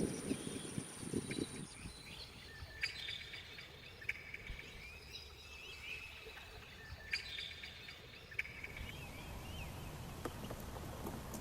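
Small birds chirping in two spells of rapid calls, the first about four seconds long and the second about two, over faint outdoor background noise.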